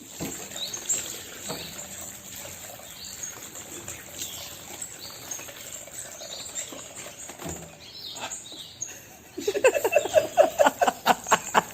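Faint, scattered bird chirps. About nine seconds in comes a loud, rapid run of short repeated calls, several a second, lasting to the end.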